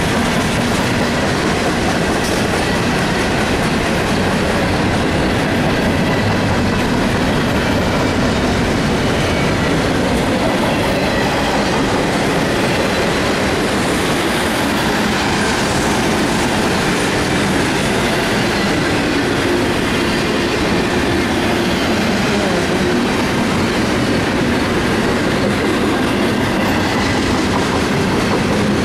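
Double-stack container cars of a BNSF intermodal freight train rolling past close by: a steady, loud noise of steel wheels running on the rails.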